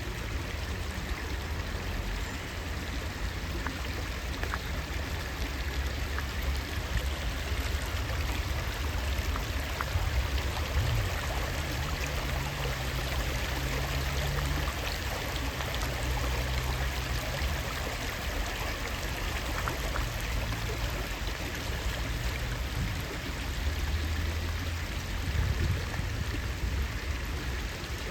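Rain dripping onto lake water: a steady patter of many small drops, with a low rumble underneath.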